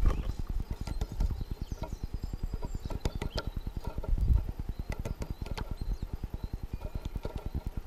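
Great spotted woodpecker pecking at a bird feeder: rapid, even knocking of about ten strokes a second, with a few sharper clicks mixed in.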